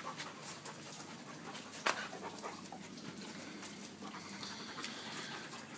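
Dog panting, the heavy breathing of a dog frightened by thunder. A short click comes about two seconds in.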